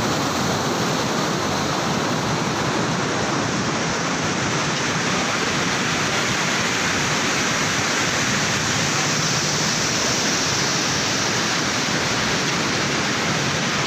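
Rain-swollen drain, its floodwater rushing past in a steady, unbroken torrent.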